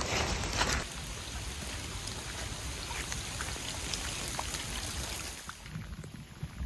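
Heavy rain falling steadily, with scattered raindrop ticks, and a brief louder swell of noise in the first second.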